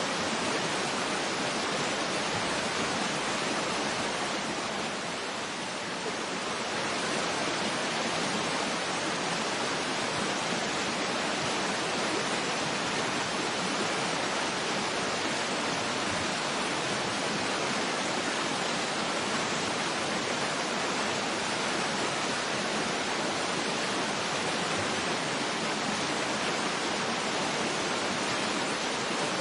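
Waterfall pouring steadily, an even, dense rush of water with no breaks, briefly a little softer about five seconds in.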